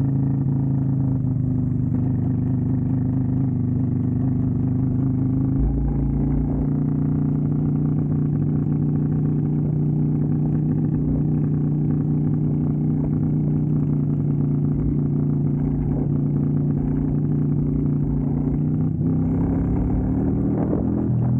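Keeway V250 V-twin motorcycle engine running under way at a steady speed. Its pitch steps up slightly about six seconds in, then shifts again near the end as the revs change.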